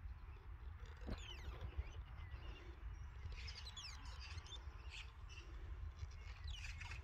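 Small birds chirping faintly, with clusters of quick high sweeping calls about a second in, in the middle and near the end, over a steady low rumble.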